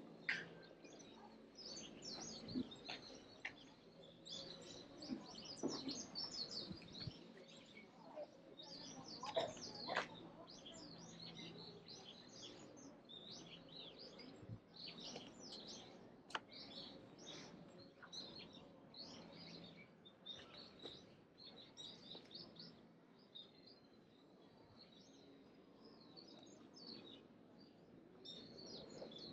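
Birds chirping: many short, high calls overlapping without a break, with a few faint sharp clicks among them.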